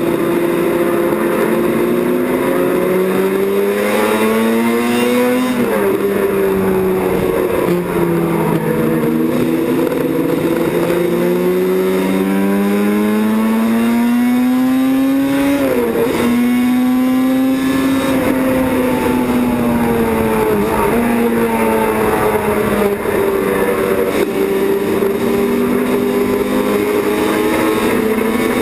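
Racing motorcycle engines running hard on a circuit, the pitch climbing under acceleration and dropping sharply at each gear change, several times over.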